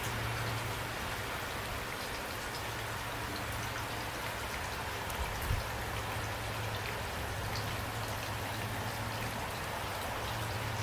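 Steady rainfall, with scattered drops ticking on a hard surface and a low rumble underneath. There is one brief low thump about five and a half seconds in.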